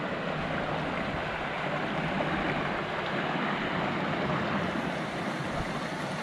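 Woodland stream water rushing steadily, a continuous even hiss of running water.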